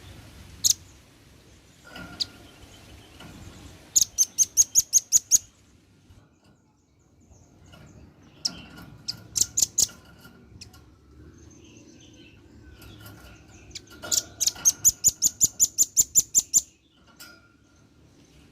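Male velvet-fronted nuthatch giving rapid runs of sharp, high chipping notes, three trills of roughly six to thirteen notes each with a few single notes between. This is its loud chattering call to its companions, used as a lure call.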